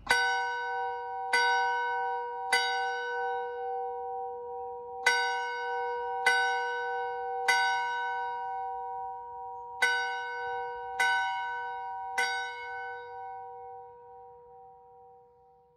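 A single church bell struck nine times in three groups of three, each stroke ringing on at the same pitch, the ringing dying away near the end.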